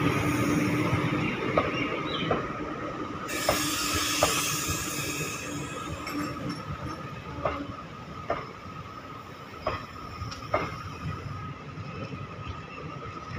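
Indian Railways passenger coaches of an express train rolling slowly into a station, their wheels clacking over the rail joints with a steady wheel squeal. A burst of hiss comes about three seconds in and lasts a couple of seconds, and the train gets gradually quieter as it slows.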